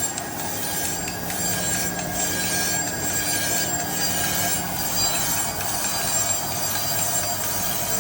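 Crankshaft grinder's abrasive wheel grinding a steel main journal of a Kawasaki Ultra 300LX crankshaft: a steady grinding hiss with a few steady whining tones over the machine's hum. The burnt journal is being ground undersize to fit a substitute bearing.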